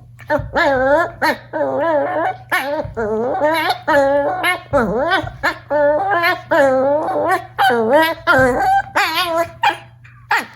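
Mame shiba puppy whining and yowling in a near-continuous run of wavering cries that bend up and down in pitch.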